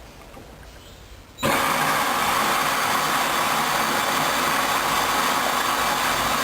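Hoover Dynamic 10124 DP washing machine: a loud, steady rushing noise switches on abruptly about one and a half seconds in and runs on evenly, the machine moving from the intermediate spin into the second rinse.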